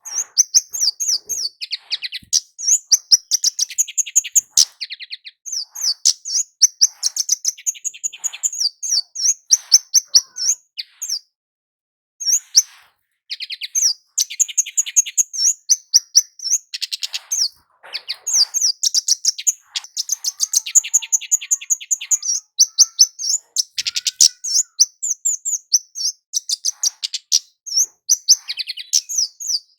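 Javanese kemade (flowerpecker) in full song: a dense, unbroken stream of rapid, high, sharp chirps and trills, with one brief pause about twelve seconds in.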